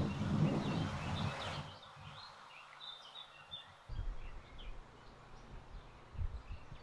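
Birds chirping faintly: short, scattered high chirps. A rushing noise fills roughly the first second and a half and then stops abruptly, and two low thuds come about four and six seconds in.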